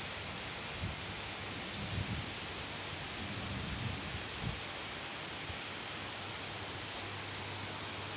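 Steady rain falling, an even hiss, with a few brief low bumps between about one and four and a half seconds in.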